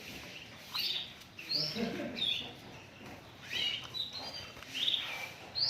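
White-eye (pleci) giving a series of short, high chirps and twitters, the bird song used as a lure to get other pleci singing.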